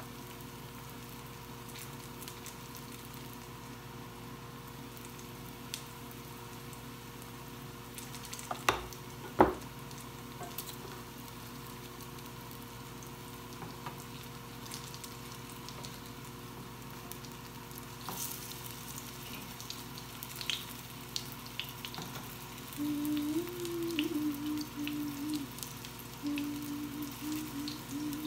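Gram-flour fritters frying in oil in a nonstick pan, a steady faint sizzle, while a wooden spatula turns them near the end. Two sharp knocks about nine seconds in.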